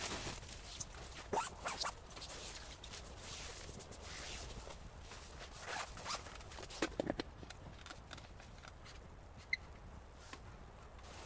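Close handling noises of camping gear: irregular rustling and scraping with scattered short clicks and knocks, busier in the first half and thinning out after about eight seconds.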